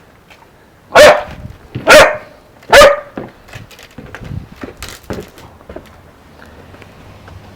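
Newfoundland puppy barking three times, about a second apart, followed by a few faint crunching clicks.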